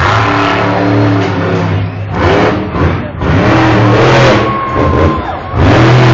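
Monster truck engine revving hard in repeated loud surges, easing off briefly between them.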